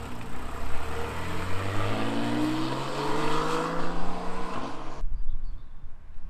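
A car engine accelerating hard, its pitch climbing steadily for about four seconds, as it pulls away. The sound cuts off suddenly about five seconds in, leaving a faint low rumble.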